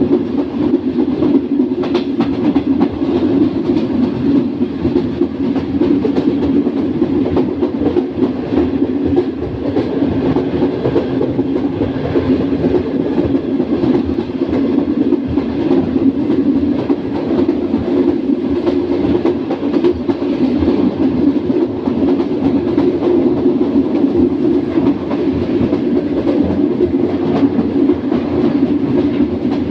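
Passenger train coaches running at speed: a steady track rumble with a rapid stream of wheel-and-rail clicks, plus one sharper clack about two seconds in.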